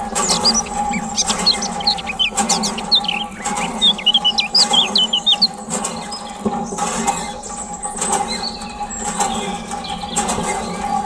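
Small birds chirping in quick, high twittering calls through the first half, over a steady hum that runs throughout.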